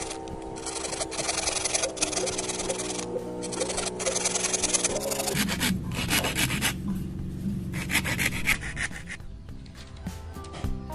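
A hand tool working bamboo in repeated back-and-forth rasping strokes, over background music with steady held notes.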